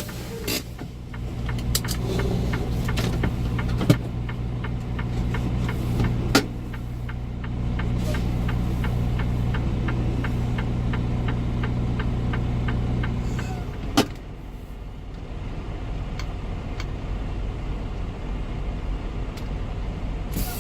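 Semi-truck diesel engine idling with a steady low hum, with a few sharp clicks. About 14 seconds in, a click comes and the engine hum stops, leaving a quieter background.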